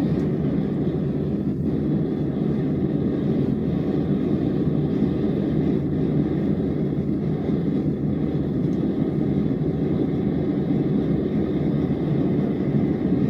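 Steady roar of a forge burner running as the drill-bit steel is heated for hardening.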